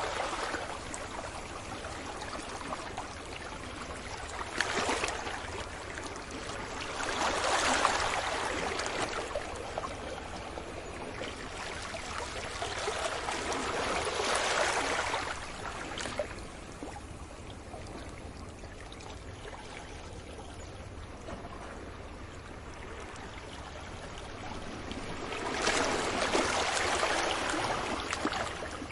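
Ocean waves breaking on a beach: slow, swelling rushes of surf that come and go, about four in all, over a steady wash of water. There is a long lull before the last wave.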